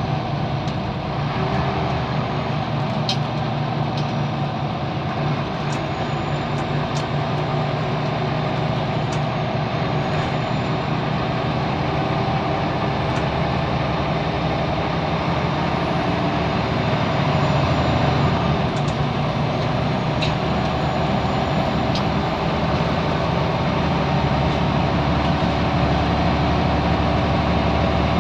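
Scania L94UB bus's diesel engine running steadily while the bus is under way, heard from on board, pulling a little harder about two-thirds of the way through. A few light clicks and rattles from the bus body are scattered through.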